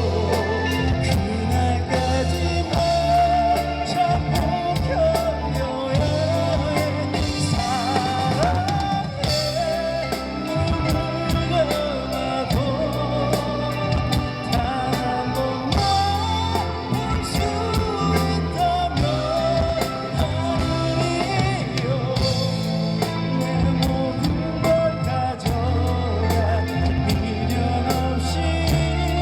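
Live rock band playing a power ballad: drum kit, bass and guitars, with a bending lead melody line held over them.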